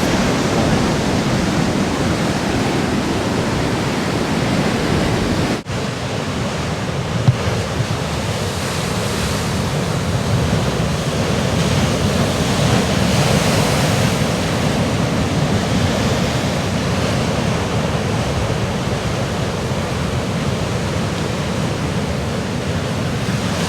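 Large storm swells breaking on jagged rocks: continuous heavy surf noise, with a short break about six seconds in.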